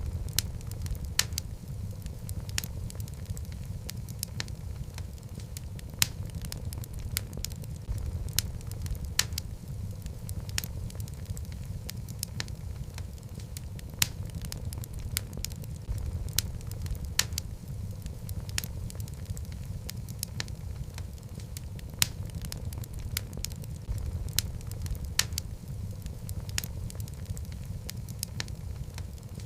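Wood fire of burning logs in a fireplace: a steady low rumble of flame with irregular sharp crackles and the occasional louder pop.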